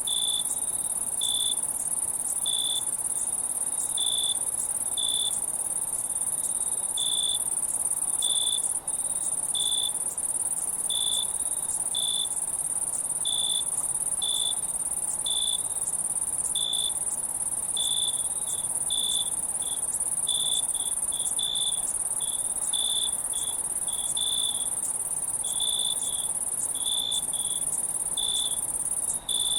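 Insects chirping: a steady high-pitched drone with short chirps repeating irregularly, about once a second.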